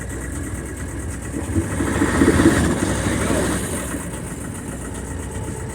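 Boat motor running in gear, with a steady drone that swells louder about a second and a half in and settles back after about three and a half seconds.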